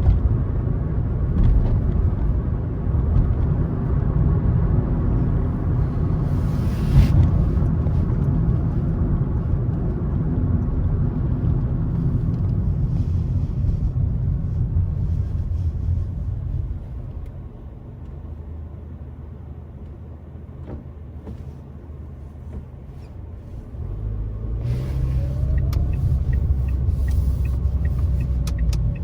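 Car on the road: a steady low engine and tyre rumble with one short knock about seven seconds in. The rumble drops to a quieter low level for about seven seconds, then rises again near the end with an engine note climbing in pitch.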